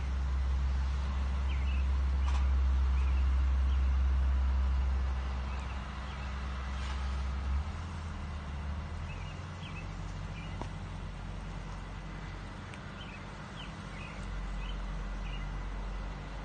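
A low steady rumble with a background haze, and scattered faint short bird chirps over it.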